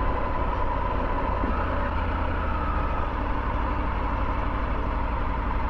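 Triumph Tiger 900 GT's inline three-cylinder engine running steadily while the motorcycle is ridden along the road, a constant low rumble.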